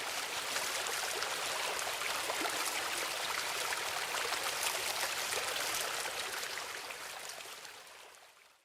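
A small stream babbling steadily over stones, fading out over the last two seconds.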